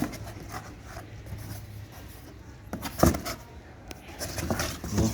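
A few knocks and scrapes from a new washing-machine transmission unit being handled, the loudest knock about three seconds in and another near the end, over a low steady hum.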